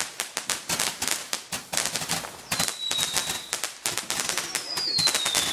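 Fireworks going off in a rapid barrage of crackling pops, several a second, typical of a multi-shot firework cake. Two whistles fall in pitch, one about two and a half seconds in and another near the end.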